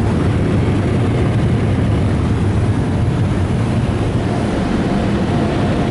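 PDQ Laserwash 360 car wash dryer blowers running, a loud, steady rush of air, heard from inside the car's cabin.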